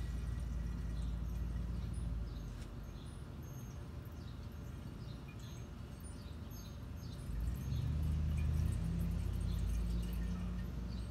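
Small birds chirping in short falling notes over a low steady hum; the hum gets louder about seven and a half seconds in.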